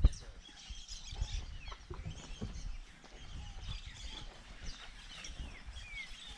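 Many birds chirping: short downward-sliding calls overlapping throughout, over an irregular low rumble, with a low thump at the very start.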